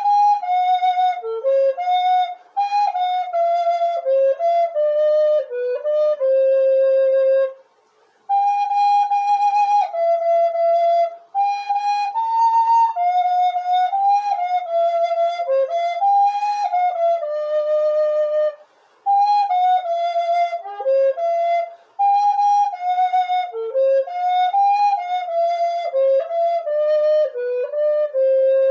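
Solo flute playing a hymn melody, one note at a time, in phrases with brief breaths between them, and ending on a long held note.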